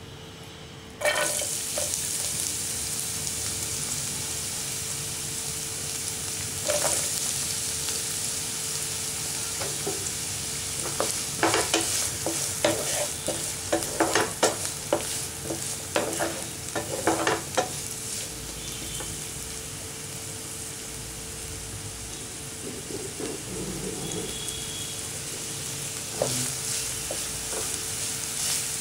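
Chopped onions sizzling in hot oil in a non-stick pan while a wooden spatula stirs them. The sizzle starts suddenly about a second in. Between about 11 and 18 seconds the spatula knocks and scrapes against the pan many times.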